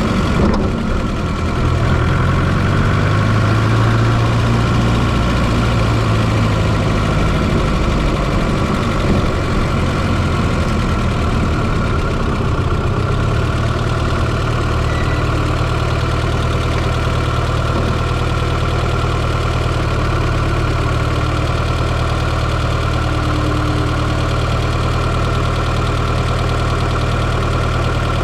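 1995 Fiat Coupe 2.0 16V turbo four-cylinder engine idling, heard close up from inside the engine bay; a little uneven for the first dozen seconds, then steady.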